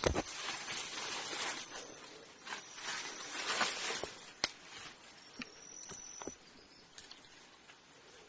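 Rustling and crunching of movement through forest undergrowth, with scattered sharp snaps and clicks, the loudest just after the start and about four and a half seconds in. A faint thin high tone comes in briefly twice.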